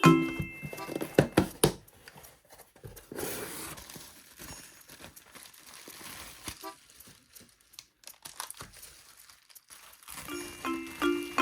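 Parcel packaging being handled and opened: crinkling, a tearing rush about three seconds in, and scattered sharp taps and clicks, with a few notes of background music at the start and end.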